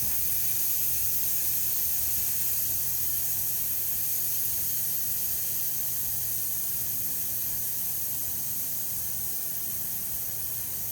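Air hissing steadily out of a motorcycle rear tire as it is deflated, slowly fading as the pressure drops.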